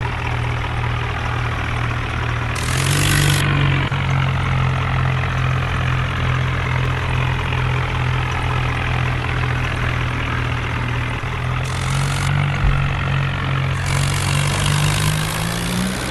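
Tractor diesel engine running steadily. Its pitch steps up about three seconds in and climbs again near the end as the engine is revved.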